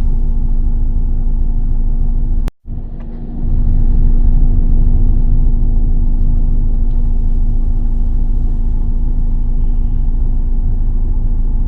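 Car road noise heard while driving: a steady low rumble of tyres and engine with a constant hum. The sound drops out for a moment about two and a half seconds in, then comes back a little louder.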